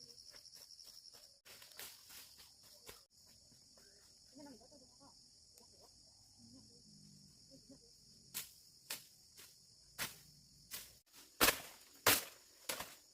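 Steady high chirring of crickets, broken briefly near the start. In the second half a series of sharp knocks comes in, growing louder toward the end.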